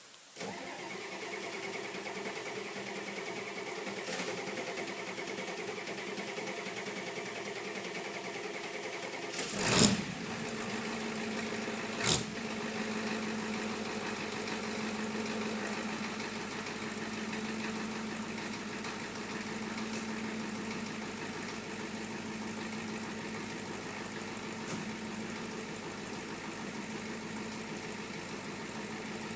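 Ford 7.3 L IDI diesel starting cold without glow plugs, with only half an hour on the block heater, then running with a steady diesel clatter. A loud blast about ten seconds in and a sharp bang about two seconds later, after which it settles into a lower, even idle.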